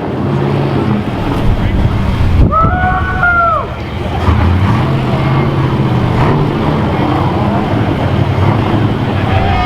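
Car engine rumbling, its pitch rising and falling with the revs, under crowd chatter. About two and a half seconds in, a short, high, arching tone sounds for about a second.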